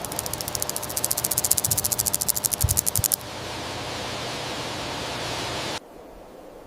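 An insect calling: a rapid, even train of high-pitched pulses for about three seconds, followed by a steady hiss that cuts off suddenly near the end.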